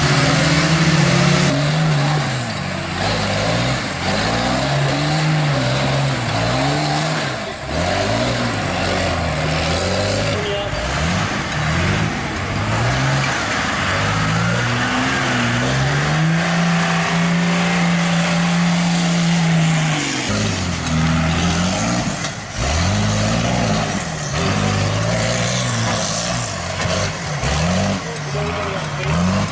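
Off-road race truck engine revving hard and repeatedly, the revs rising and falling, held high and steady for a few seconds past the middle.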